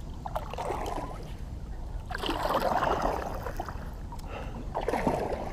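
Kayak paddle dipping and pulling through the water, three swells of splashing and sloshing about two seconds apart, the middle one loudest.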